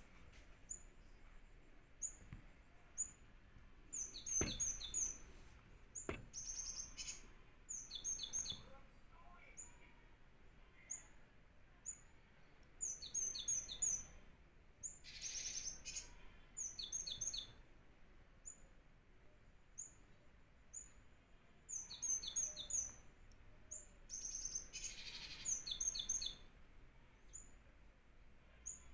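Cinereous tits calling: high, clipped notes in repeated quick clusters of three or four, with single notes between. A couple of sharp knocks and brief rustles are heard among them.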